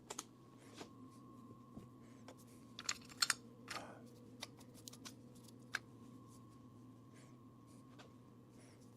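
Scattered light clicks and taps of tools and small metal parts being handled, a quick cluster of louder ones about three seconds in, over a faint steady machine hum.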